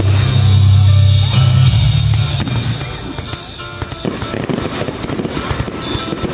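Fireworks crackling and popping over loud music. A strong low bass drops away about two and a half seconds in, leaving a dense run of crackles.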